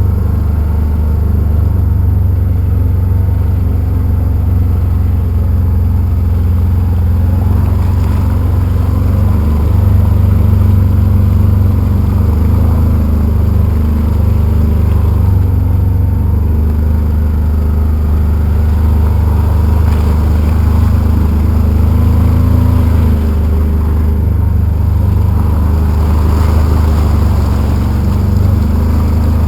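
Polaris Ranger utility vehicle's engine running loudly and steadily while driving, its speed rising and falling a little now and then.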